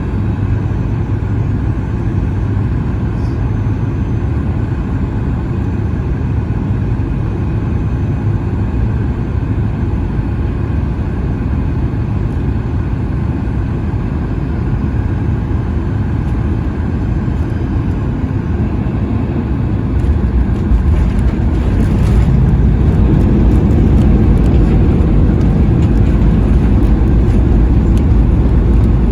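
Cabin noise of a Boeing 737 MAX 8 landing: a steady low rumble of its CFM LEAP-1B engines and airflow, growing louder about twenty seconds in.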